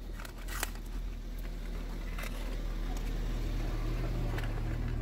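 A vehicle engine running at a steady low hum, building over the first second, with a few light clicks as spark plugs and hand tools are handled on the car.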